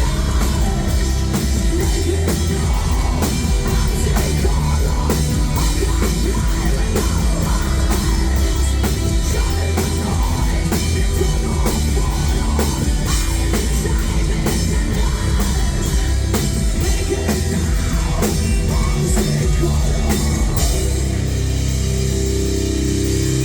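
Metal band playing live: drum kit and heavy guitars at full volume. About 21 seconds in the drums stop and a held chord rings on.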